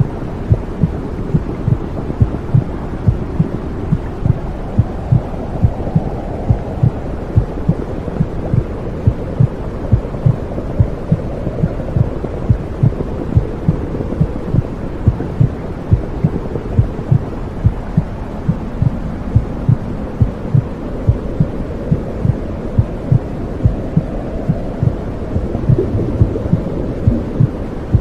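Womb sound for soothing babies: a steady heartbeat over a low, muffled whooshing rumble.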